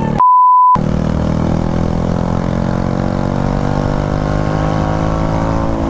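Motorcycle engine running under way, its pitch rising slowly as the bike speeds up. A short, loud censor bleep sounds just after the start.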